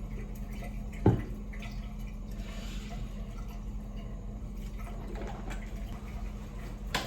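Steady low hum of a small room, with a single sharp knock about a second in and a faint, brief hiss near the middle.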